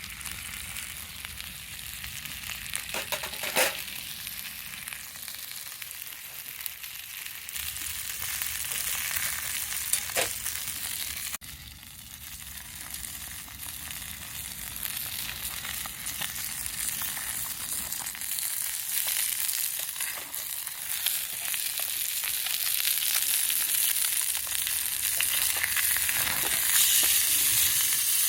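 Chicken frying in a pan, sizzling steadily and growing louder towards the end, with a couple of sharp pops from the fat.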